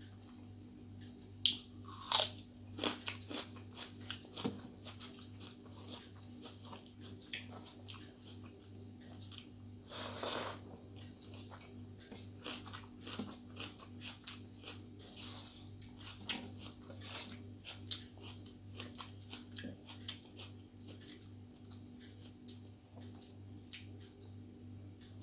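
Close-up mouth sounds of a person eating rice by hand: chewing and biting, with many short sharp clicks, the loudest a couple of seconds in.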